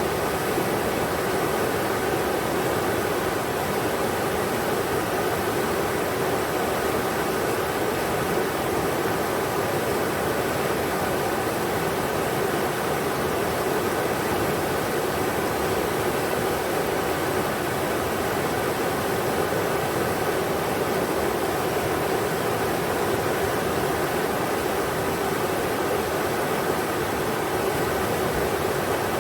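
River water rushing steadily over rocks, an even, unchanging roar of flowing water.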